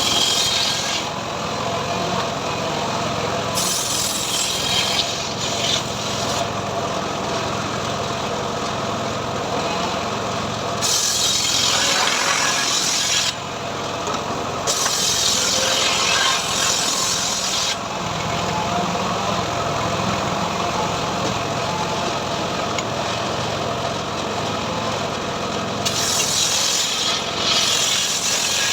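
Homemade 'srekel' sawmill running steadily as teak is sawn into boards. Four times, for a few seconds each, the blade cuts through the wood with a bright, rasping hiss over the steady run of the machine.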